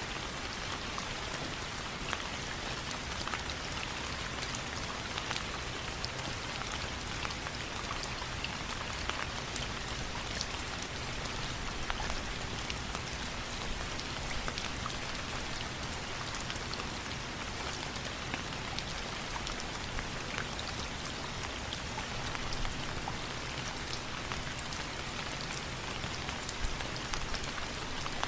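Steady rain, an even hiss with many scattered sharp ticks of drops throughout.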